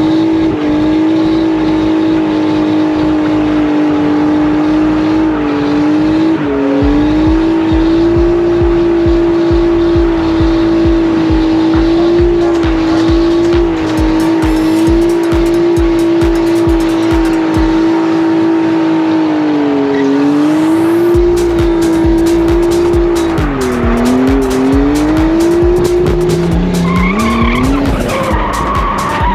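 Drift car's engine held at high revs through a long slide, its note mostly steady but dipping and climbing back several times, most in the last few seconds, with tyres squealing.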